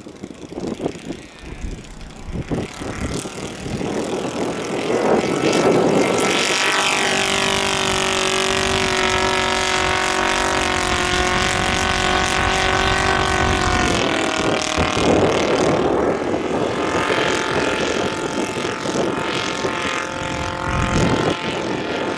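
Radio-controlled scale model aircraft's engine and propeller running: it revs up, holds a steady high pitch for several seconds, then drops back to a rougher, lower running sound a little past the middle.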